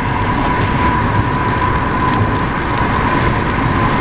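Car driving on a wet road in rain, heard from inside the cabin: a steady rush of tyre spray and rain over a low road rumble, with a thin steady tone running through it.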